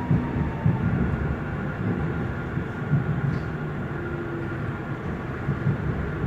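Frankfurt U-Bahn train heard from inside the car while running on the track: a steady low rumble of wheels on rail with a faint, steady electric motor whine.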